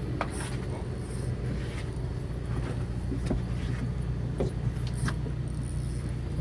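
A fishing boat's engine running steadily with a low hum, with scattered small clicks and knocks over it.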